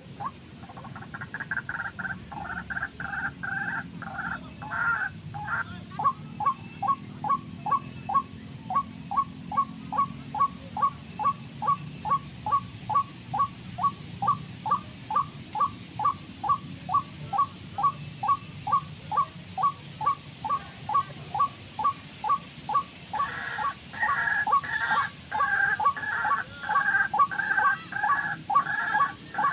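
Bird calls repeated in a steady series of short notes, about two a second. A fuller, repeating call pattern sounds at the start and again over the last few seconds.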